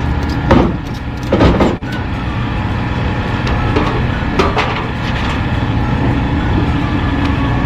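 Vehicle running with a steady low rumble and hum, with a few sharp knocks or rattles in the first two seconds and another about four and a half seconds in.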